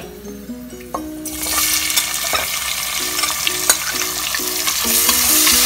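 Chopped onions hitting hot oil and ghee in a pressure cooker: a sudden loud sizzle starts a little over a second in and keeps building as they fry, with a spoon stirring and clicking against the pot.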